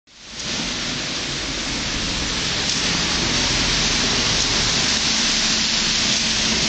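Steady hiss of rain, with a faint low hum under it in the second half.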